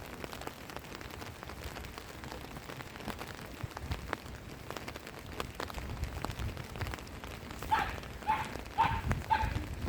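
Steady rain falling, with the ticks of single drops striking close by. Near the end an animal calls four times, short and evenly spaced.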